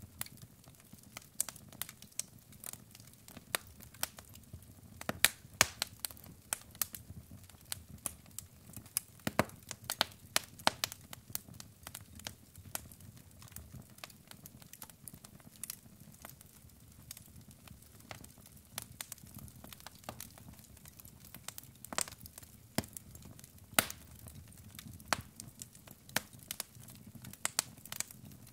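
Logs burning in a fireplace, crackling with irregular sharp pops and snaps over a low, steady rumble of flame.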